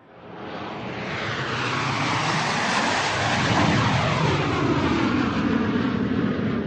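Fixed-wing airplane flying overhead: its engine roar fades in over the first couple of seconds and builds to a loud, steady rush. Sweeping falling tones run through it as the plane passes.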